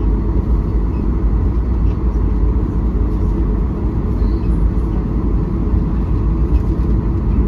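Steady low rumble of engine and air noise inside the cabin of a Southwest Airlines Boeing 737 jet airliner, unchanging throughout.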